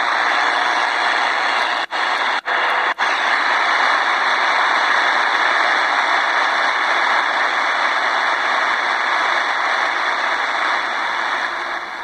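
Grundig portable shortwave radio's speaker giving out loud, steady static hiss, which cuts out briefly three times about two to three seconds in. The static is a sign of weak reception: the radio doesn't receive real well.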